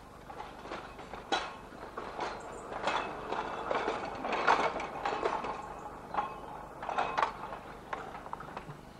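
Seaton Tramway narrow-gauge electric tram in motion, with irregular mechanical clicks and clatter.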